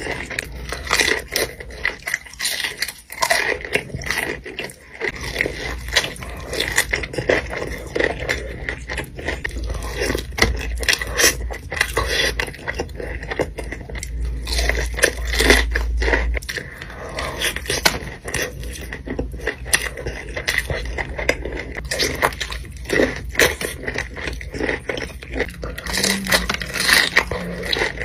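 Close-miked eating of crunchy food: bites, chewing and crackling, with scraping of food or its wrapping, in dense irregular clicks throughout.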